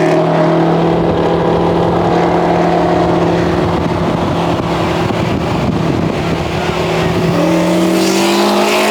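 Car engine running at a steady speed, then picking up revs about seven seconds in, its pitch rising as it accelerates.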